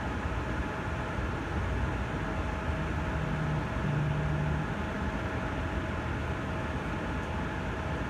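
Vintage GE PTAC air conditioner running steadily: fan air rush over a low compressor hum, with a faint steady tone. A deeper hum swells briefly a little past the middle.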